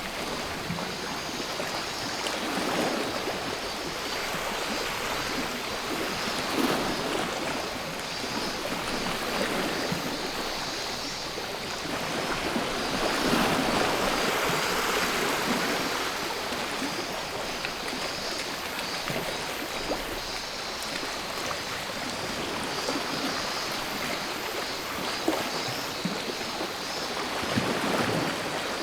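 Sea waves washing ashore, the surf swelling and easing every few seconds, loudest about halfway through. A steady high buzz of cicadas sits above the surf.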